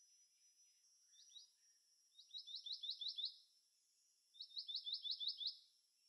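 Black-naped monarch singing: two quick runs of about eight short rising 'wi' notes, each run lasting about a second, about two and four and a half seconds in, with a couple of single notes just before.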